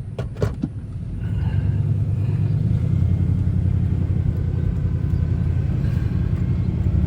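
Vehicle engine and road noise heard from inside the cab while driving, a steady low rumble that grows louder about a second in as the vehicle picks up speed after a turn. A few sharp clicks come just before it.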